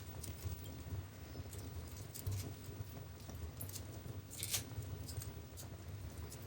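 Wood fire burning in a fireplace: a low steady rumble of flame with scattered crackles and pops, the sharpest pop about four and a half seconds in.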